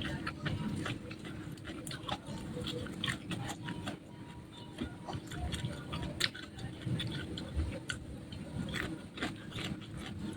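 Close-miked chewing and crunching of food, with many irregular sharp crunches and mouth clicks.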